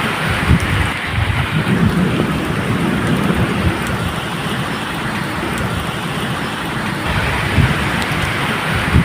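Steady medium rain falling on surfaces, with low thunder rumbling underneath in uneven swells.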